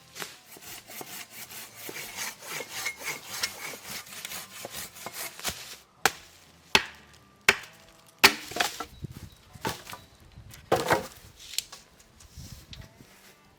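Hand tools working wood without power: about six seconds of quick, rhythmic rubbing strokes like hand sawing, then a run of separate sharp wooden knocks or chops.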